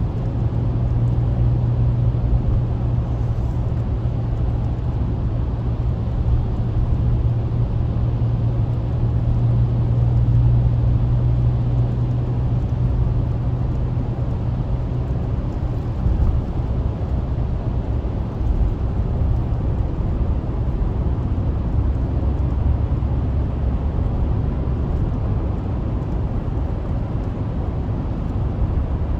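Steady low drone of a car at highway speed, heard from inside the cabin: engine and tyre noise with a strong low hum that eases a little about halfway through.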